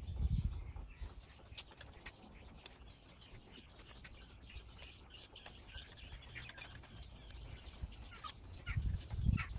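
Small birds chirping in the background, with light metallic clicks of a spanner working the brake line fitting on the master cylinder. A low rumble at the start and again near the end.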